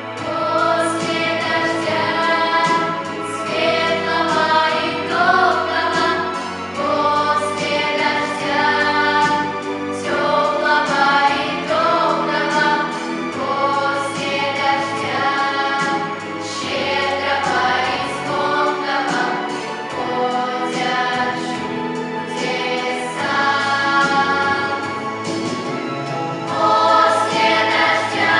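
A vocal ensemble singing a song as a group over instrumental accompaniment, steady and continuous.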